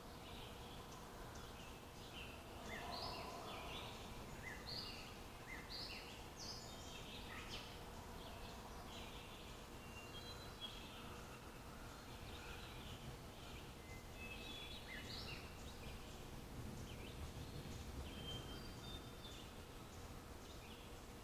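Several small birds chirping and calling on and off, with a few short whistled notes, over a faint low rumble of outdoor background noise.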